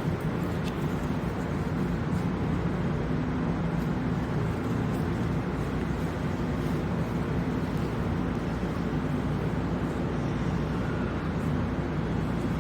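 Steady low rumble of a Seoul Subway Line 9 underground station and its trains, even throughout with no distinct events.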